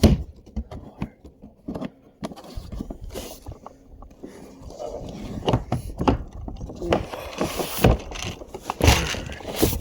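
Irregular knocks, clicks and scraping of gear being handled in a kayak, with the sharpest knocks at the very start and twice near the end.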